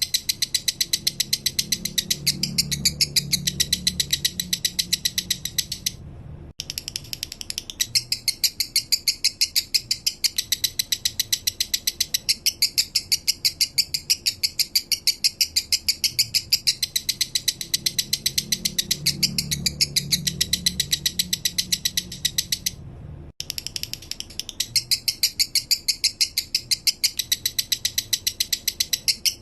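Male lovebird singing a long, rapid rattling trill of about eight chirps a second, broken off briefly twice.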